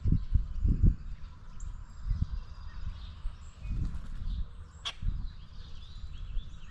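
Small birds chirping faintly, over repeated low thumps and rumbles close to the microphone, with one sharp click about five seconds in.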